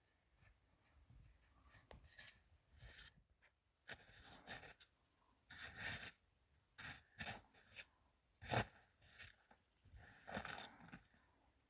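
Faint, irregular rustling and scraping handling noises in short bursts, with one sharper knock about eight and a half seconds in.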